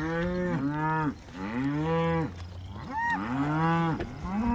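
A herd of cattle mooing, several cows calling one after another and over one another in a steady string of drawn-out moos.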